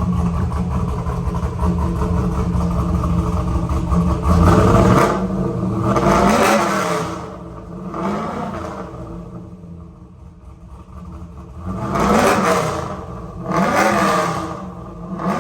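Big-cammed 6.0-litre LS V8 in a Trans Am WS6, running loud and steady at first, then revved in about five short blips. Each blip rises and falls in pitch, with quieter idle between them.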